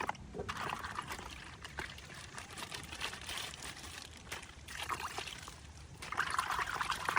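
Plastic packaging crinkling and crackling as a surprise bag is handled and opened, in several irregular bouts with the loudest near the end.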